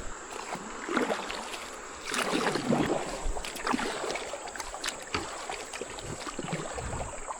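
Water splashing and sloshing around a kayak as a hooked bass is brought in, with light knocks and rustles of handling; the splashing swells about a second in and again around two to three seconds in.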